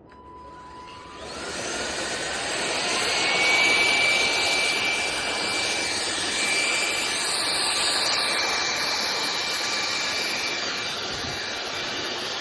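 Cordless stick vacuum's motor spinning up over about two seconds, then running steadily with a rushing airflow and a high whine.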